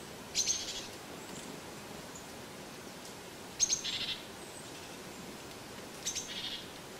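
A songbird calling three times, about three seconds apart: each call a short high chirping phrase that opens with a few quick sharp notes.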